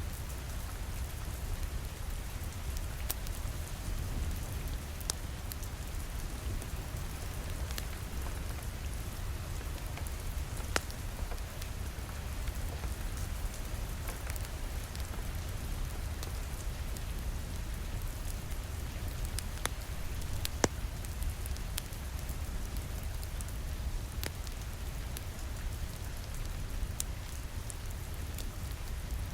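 Steady rain on a window with a low rumble, and scattered sharp crackles and pops from a wood fire in a fireplace.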